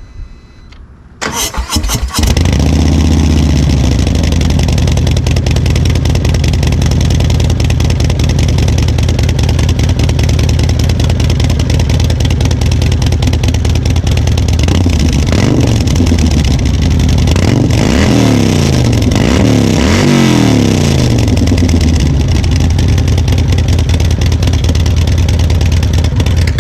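Harley-Davidson Road Glide V-twin with a Dirty Bird Concepts 2-into-1 exhaust and Woods 22XE cam, starting up: it cranks and catches about a second or two in, then idles loud and steady. It is revved several times a little past the middle, the revs rising and falling, and then settles back to idle.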